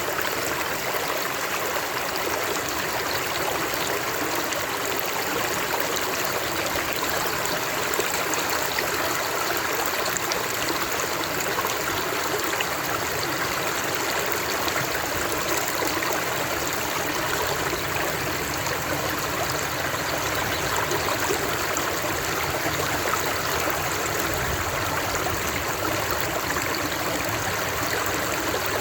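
Stream water running steadily over stones, a continuous even rush with a light trickle.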